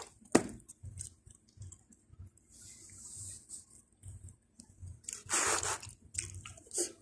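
Close-up eating sounds of a person chewing pizza, with a sharp knock about half a second in. A louder rustling scrape comes a little after five seconds, and a few short clicks follow near the end.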